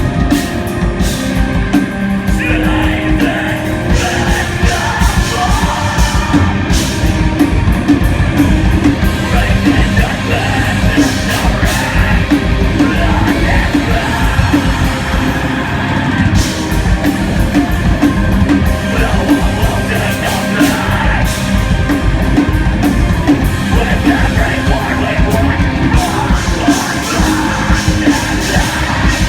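Live rock band playing loud, distorted music with drums and shouted vocals.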